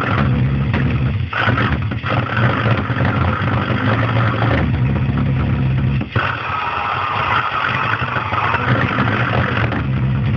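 Homemade sheet-metal pulse jet engine running with a loud, steady buzzing drone, faltering briefly a few times (about a second in, at two seconds, and around six seconds) before picking up again.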